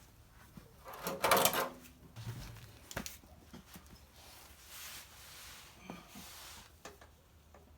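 A loud metallic clank with brief ringing about a second in, then a sharp click and a soft rubbing hiss with a few light clicks: metal parts and tools being handled while a new front drive axle is fitted.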